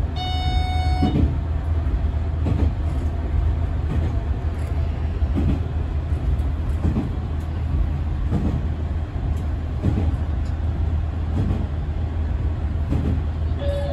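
Diesel railcar running along the line: a steady low engine drone with soft knocks from the wheels about every second and a half. A high tone with strong overtones sounds for about a second at the start, and two falling tones near the end are the chime before an onboard announcement.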